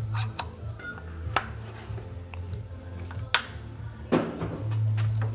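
Metal engine parts and hand tools clinking and knocking against each other during engine assembly, a few sharp taps with short pauses between, over a low hum.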